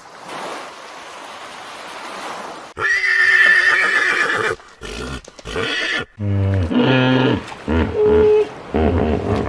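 A steady rushing noise, then a horse whinnying loudly, the call wavering in pitch about three seconds in, followed by a run of several shorter calls near the end.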